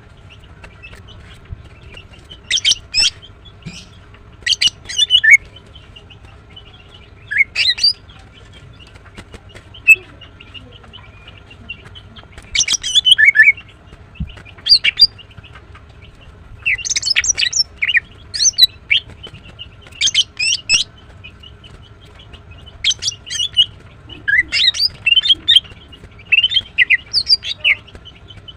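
Female greater green leafbird (cucak ijo) calling in short bursts of quick, sharp chirps, a cluster every one to three seconds.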